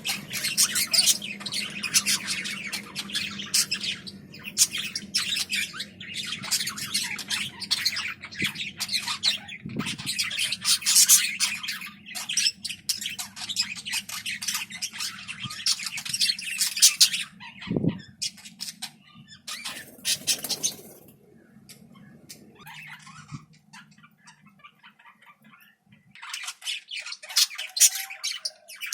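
Budgies chattering and squawking in a rapid, dense stream of short calls, falling off about two-thirds of the way through and picking up again near the end. A low steady hum runs underneath and stops shortly before the chatter resumes.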